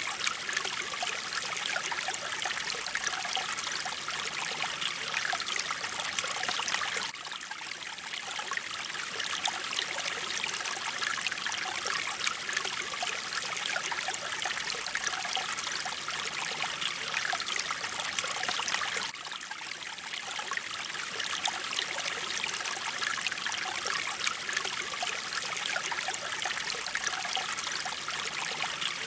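Mountain stream water flowing steadily, a continuous trickling rush that dips slightly in level about seven seconds in and again about nineteen seconds in.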